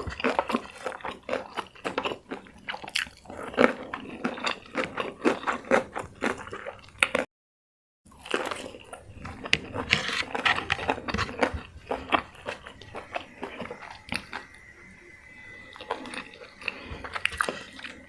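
Close-miked biting, crunching and chewing of crispy fried chicken, in irregular bites and chews. The sound cuts out completely for under a second about seven seconds in.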